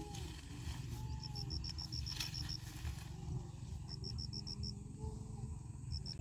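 Outdoor ambience: short trains of rapid, evenly spaced high chirps, several times, over a steady low rumble.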